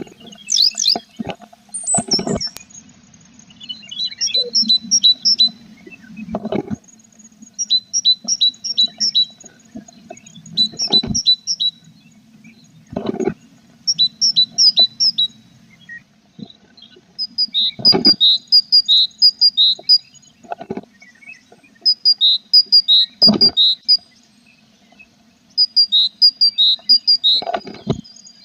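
Tit nestlings in a nest box giving repeated short bursts of rapid, high begging chirps, several chirps to each burst. Loud knocks and bumps of birds moving against the box come every few seconds.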